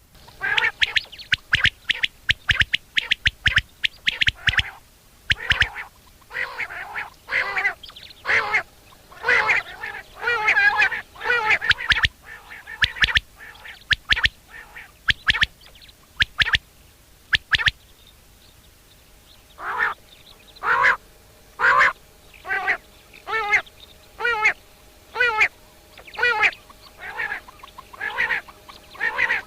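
Common quail (Coturnix coturnix) calling: short, loud calls repeated rapidly in runs. The calls pause for about two seconds midway, then resume at a steady pace.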